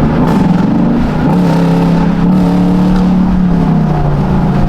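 Car engine running loudly, its note shifting about a second in, holding steady, then dropping away near the end.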